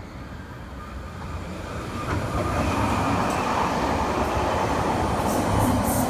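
Red RBS metre-gauge electric commuter train arriving and running past, its rumble and wheel noise swelling from about a second in to a loud, steady level.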